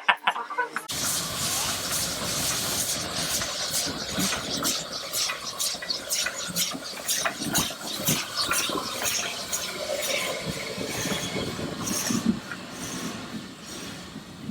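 A steam locomotive and its train running, with dense irregular clanking and knocking over a steady hiss. The sound starts abruptly about a second in.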